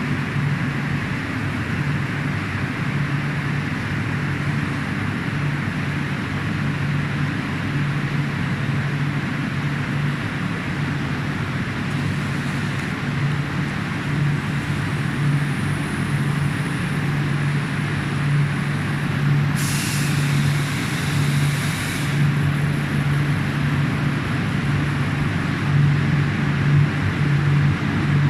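Hot-melt glue coating machine for edge banding running steadily with a constant low hum. A brief hiss lasts about two seconds roughly two-thirds of the way through.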